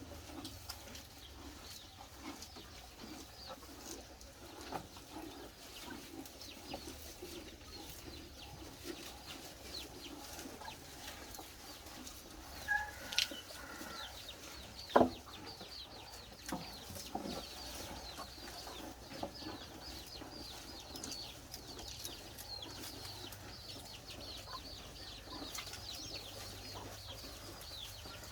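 Chickens clucking now and then, with one sharp knock about fifteen seconds in.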